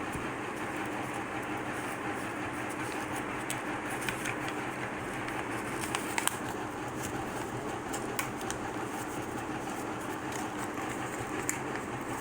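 Paper being folded and creased, with a few soft crackles and taps, over a steady machine-like hum.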